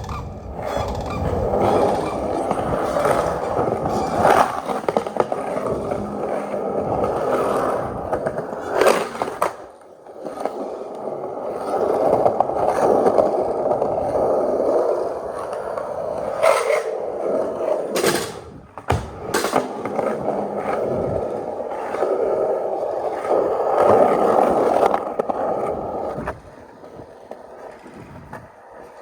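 Skateboard wheels rolling in long stretches, punctuated by several sharp clacks of the board hitting the ground. The rolling dips briefly partway through and stops near the end.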